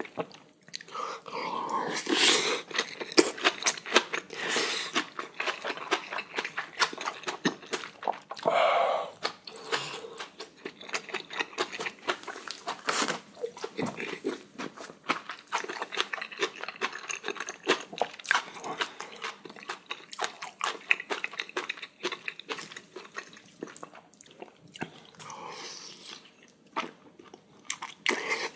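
Close-miked mouth sounds of a person eating spicy braised kimchi with beef large intestine and rice: wet chewing and smacking clicks, broken by a few louder, breathy bursts.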